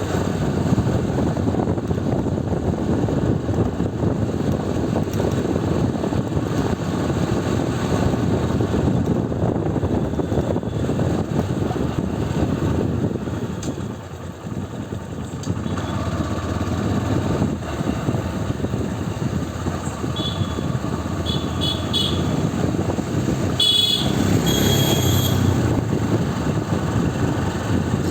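Motorcycle on the move, a steady engine rumble mixed with wind and road rush. It eases briefly about halfway, and near the end a few short high-pitched tones sound over it.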